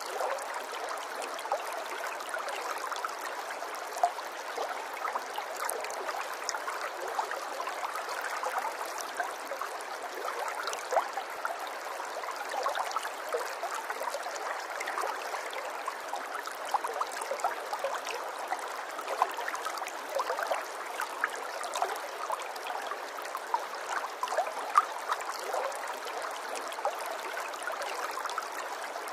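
Small stream of running water babbling and trickling steadily, with a constant patter of small gurgles and drips and no deep rumble.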